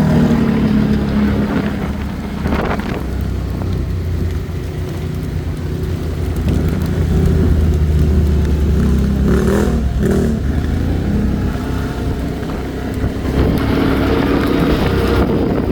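ATV engine running steadily under way, its pitch shifting a little, with a few brief knocks about a third and two thirds of the way through.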